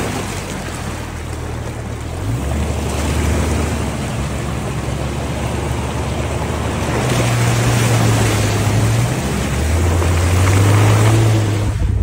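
Jeep Cherokee XJ engine pulling in four-wheel-drive low range at a flooded creek crossing. Its low drone steps up and down in pitch a few times, over a steady wash of rushing water.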